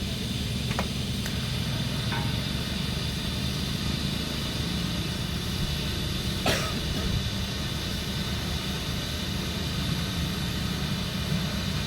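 Steady low machine drone, with a few faint ticks and a sharper click about six and a half seconds in.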